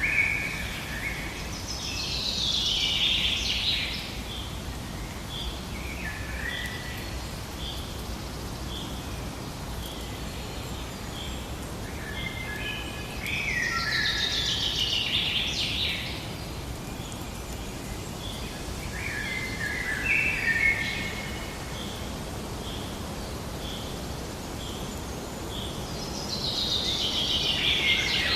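Birdsong over a steady outdoor hiss. Several birds are singing: a loud song phrase of two to three seconds comes about every twelve seconds, with shorter calls between them, while another bird repeats a faint short note about once a second.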